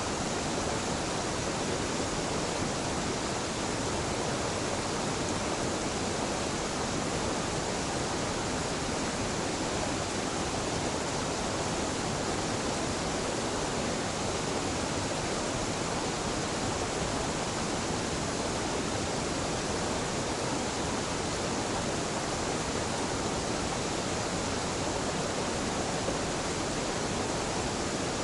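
Small, gentle waterfall: a steady, even rush of falling water with no breaks or changes.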